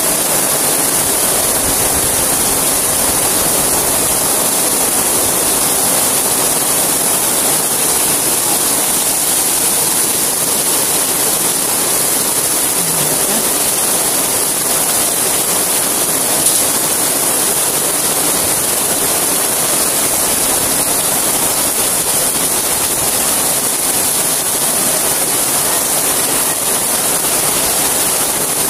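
Heavy rain pouring down on a wet street and canvas stall awnings: a loud, steady hiss.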